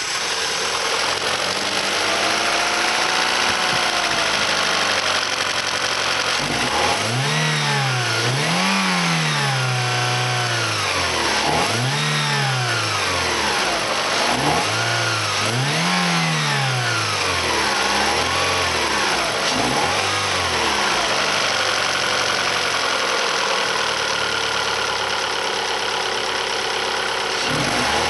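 Alfa Romeo 156 1.8 16V Twin Spark four-cylinder engine running after a start: it idles for several seconds, then is revved in a series of short blips, each rising and falling back, settles to a steady idle, and is revved once more near the end.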